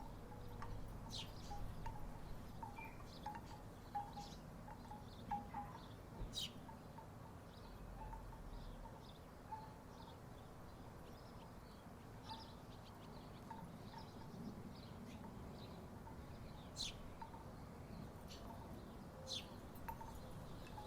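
Wooden tiki wind chimes knocking together at irregular intervals, soft hollow clonks with now and then a sharper click, over a faint low rumble.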